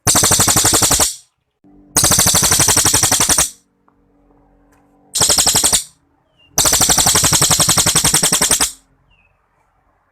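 Cililin songbird giving its long, rapid rattling song phrases, four fast machine-gun-like bursts of repeated notes with short pauses between them, the longest near the end lasting about two seconds.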